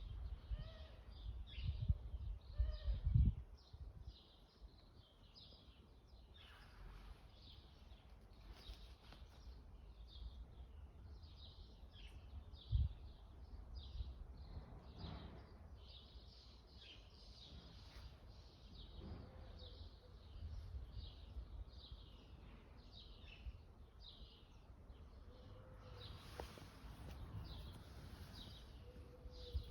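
Small birds chirping and calling in quick short notes throughout, over a low rumble that is strongest in the first few seconds, with one knock about 13 seconds in.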